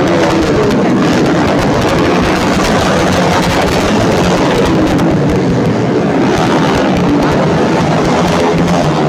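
Racing underbone motorcycles running at high revs, a loud, dense, steady engine noise with several engine notes rising and falling as the bikes accelerate and back off.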